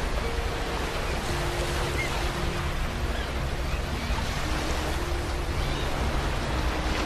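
Ocean surf washing steadily without distinct breaks, with faint, slow sustained music notes held underneath.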